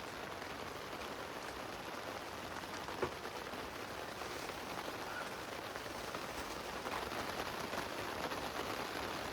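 Steady heavy rain falling on a tent, with scattered drops ticking and one sharper tap about three seconds in.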